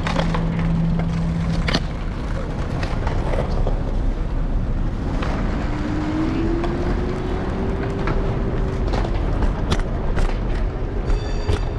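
City street traffic heard from a moving electric scooter, with a constant low rumble of wind and road on the handlebar-mounted microphone. A steady hum stops about two seconds in, and a slowly rising whine runs through the second half, with a few sharp clicks.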